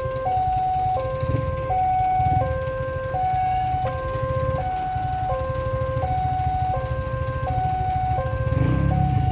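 Railway level-crossing warning alarm sounding, a high and a low electronic tone alternating about every two-thirds of a second: the signal that a train is approaching. A steady low rumble of idling traffic runs underneath.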